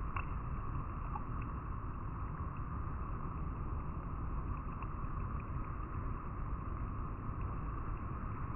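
River water flowing over rocks: a steady rush with small splashes and plops scattered through it.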